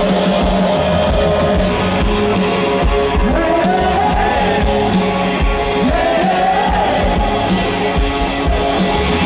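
Rock music with strummed guitars and a singing voice; the sung line comes in about three seconds in and again around six seconds.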